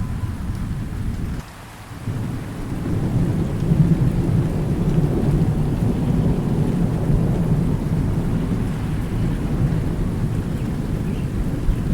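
Thunder rumbling over steady rain. The rumble drops out suddenly about a second and a half in, then swells back, loudest about four seconds in, and rolls on steadily.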